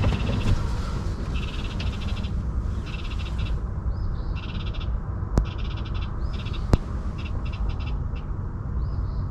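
Animal calls: a series of rapid trills, each under a second long and repeated every second or so, with short rising-and-falling chirps between them, over a steady low rumble. Two sharp clicks sound about five and a half and seven seconds in.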